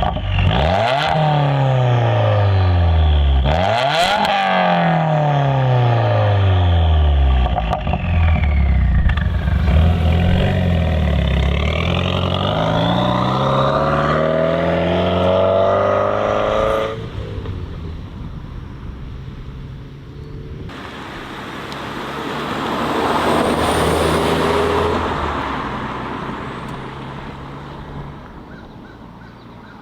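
Subaru WRX's turbocharged FA20 flat-four, through a titanium valved sport exhaust, accelerating hard: the engine note climbs in pitch and drops sharply at each gear change, then carries on at high revs. About 17 seconds in the sound cuts to a quieter scene where the car passes by, swelling to a peak and fading away.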